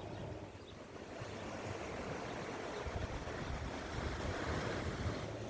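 Sea waves washing onto the beach: a steady rushing noise that swells a little, with low buffeting from wind on the microphone.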